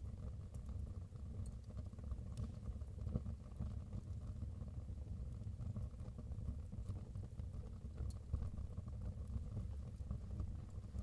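Wood fire burning in a fireplace: a steady low rumble of flames with occasional sharp crackles and pops every few seconds.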